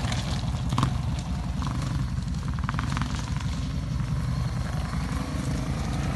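Dirt bike engine running steadily with a rapid, even firing pulse and no revving.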